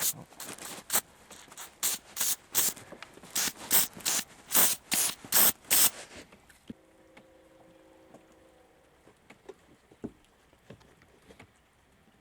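Aerosol can of PB Blaster penetrating oil sprayed in about a dozen short bursts onto a rusted, seized rear-seat hinge, stopping about six seconds in. A faint steady hum of a few tones follows for about two seconds, then a few light clicks.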